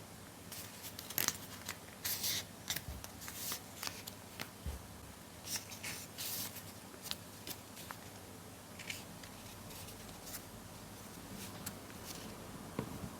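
Paper being handled and worked by hand: a string of crisp rustles, creases and small clicks, busiest in the first half and thinning out toward the end.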